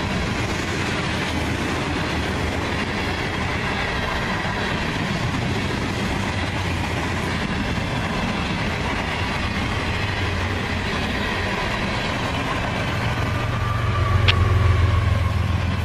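A freight train's cars rolling past on the rails, a steady clatter of steel wheels. Near the end, a mid-train diesel locomotive passes, adding a louder low engine drone and a single sharp click.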